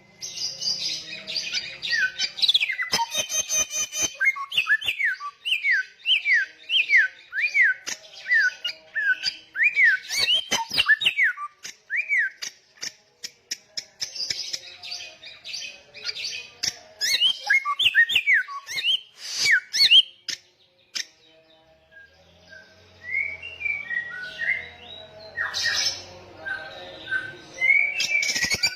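Samyong songbird singing loudly and persistently: a fast series of whistled notes that sweep down in pitch, about two a second, mixed with sharp clicks and harsh chatter. There is a short pause about three-quarters of the way through, then varied twittering notes.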